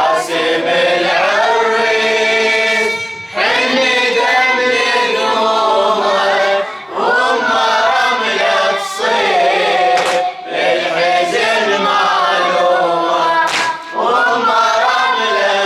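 Voices chanting a Shia Muharram elegy (latmiya) in unison, in long sung phrases of a few seconds each, with short breaks between them.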